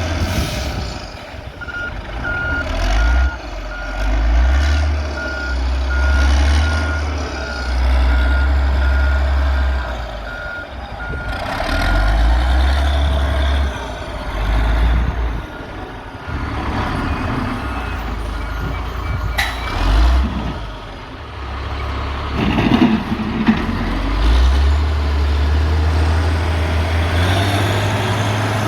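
Heavy diesel earthmoving machinery working, the engine note rising and falling under load. A reversing alarm beeps steadily from about two seconds in to about eleven seconds, and again briefly near twenty seconds, along with a single sharp clank.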